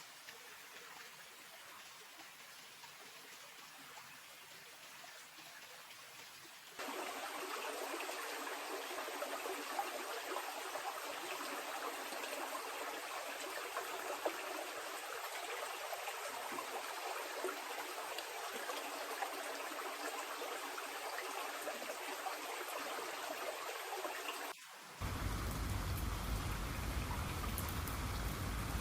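Rain falling steadily, in three stretches that change abruptly: fairly light at first, louder about seven seconds in, and heavier and fuller near the end.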